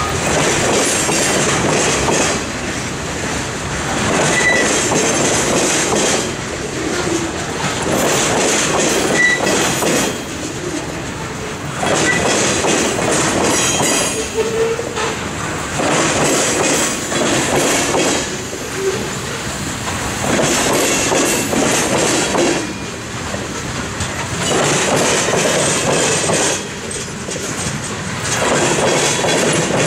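Freight cars rolling past, their steel wheels clattering over a railroad diamond crossing in loud bursts about every four seconds as each set of trucks goes across, with a few brief wheel squeals.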